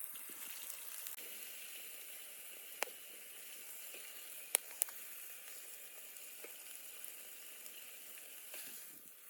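Food sizzling steadily in hot oil in a pan, with three sharp pops: one about three seconds in and two close together a little later.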